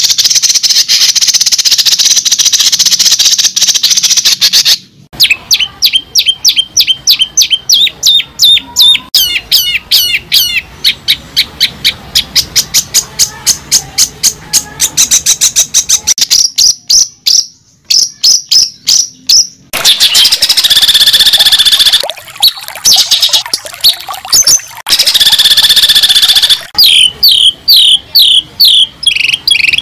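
A bird singing loudly close up. Stretches of continuous high warbling alternate with quick runs of short separate chirps, with a brief pause about two-thirds of the way through.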